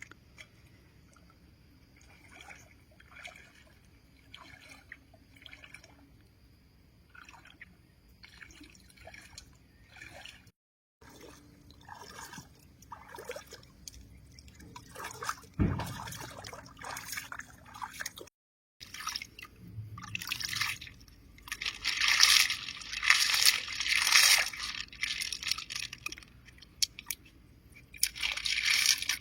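Lake water sloshing and dripping in irregular splashes as it is stirred in the shallows. A louder run of splashing comes about three quarters of the way through.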